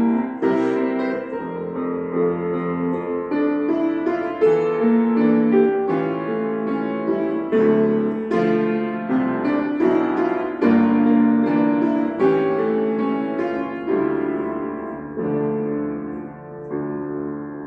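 Piano playing a slow, lyrical melody over chords, with struck notes that ring and fade; the playing grows softer in the last few seconds as the piece winds down.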